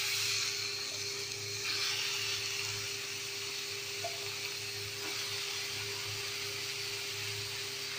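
Freshly washed raw chicken pieces sizzling in hot oil in a pan of fried onion-tomato masala: a steady hiss.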